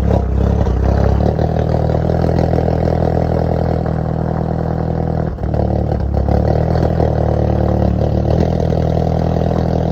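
Alfa Romeo MiTo Veloce's four-cylinder petrol engine running shortly after a cold start, its note stepping up and down a few times, with a brief dip about five seconds in.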